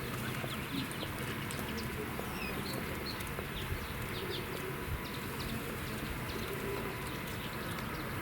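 Small birds calling in many short, high chirps, with a feral pigeon cooing low a couple of times, over steady city background noise.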